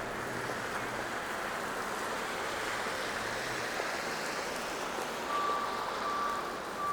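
Steady hiss of city traffic on snowy streets. About five seconds in, a vehicle's reversing alarm beeps three times, a steady high beep.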